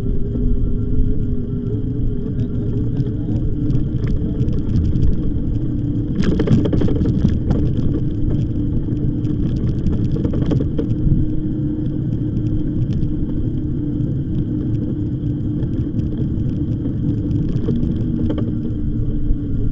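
Riding noise of an e-bike on a path: steady low rumble from the tyres and wind on the microphone, with a steady hum underneath. Bursts of rattling come over bumps about six seconds in and again about ten seconds in.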